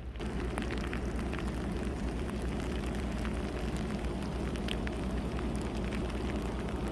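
Blizzard wind on the microphone, a steady low rushing, with many light ticks of blowing snow scattered through it.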